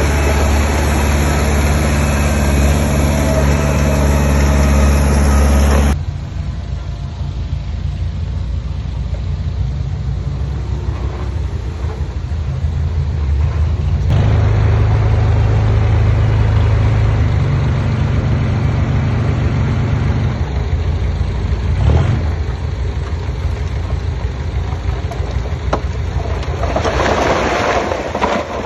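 Diesel engines of heavy earthmoving machines, a small bulldozer and dump trucks, running steadily; the sound changes abruptly about six seconds in and grows louder again about halfway through.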